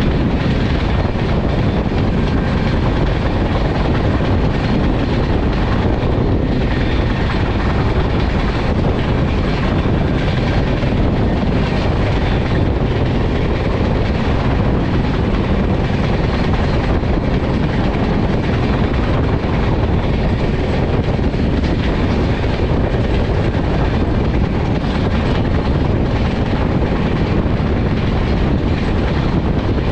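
Passenger train running at high speed: a steady, loud rumble of the wheels on the rails mixed with rushing air.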